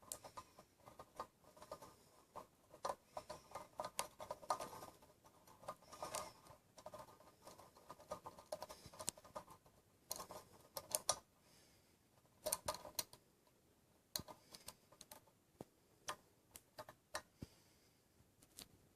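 Faint, irregular small clicks, taps and scrapes from hands working at the ceiling fan light's fuse box, handling the fuse and its holder to check it for a suspected blown fuse.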